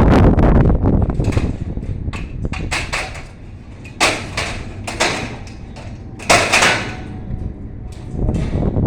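A few sharp knocks and clanks, the clearest about four, five and six and a half seconds in, following a low rumble that fades out over the first three seconds.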